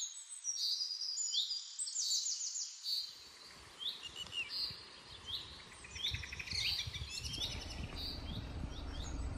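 Small birds chirping: a steady run of short, high chirps, several overlapping, with a faint low rumble coming in after about three seconds.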